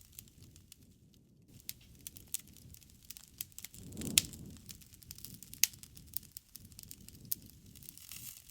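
Wood fire crackling in a fireplace: irregular sharp pops and snaps over a low rumble of flames, with the loudest pops about four and five and a half seconds in.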